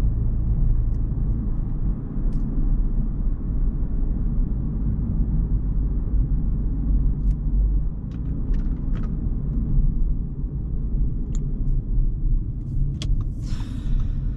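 Audi S5's 3.0-litre V6 and road noise heard from inside the cabin: a steady low rumble while driving, with a few faint clicks and a short hiss near the end.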